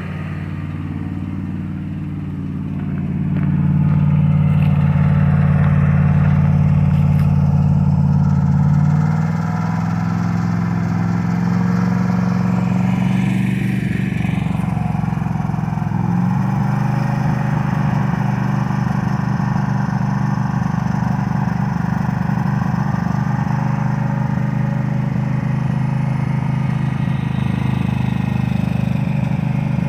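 Dodge Dakota engine running above idle while a sprayer mists water into its open intake. The engine gets louder about three seconds in and its note shifts around nine and again around sixteen seconds.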